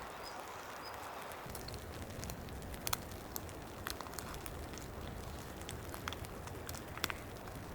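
Rain falling steadily on a tent shelter, an even hiss with scattered sharp drips and taps, the loudest about three seconds and seven seconds in.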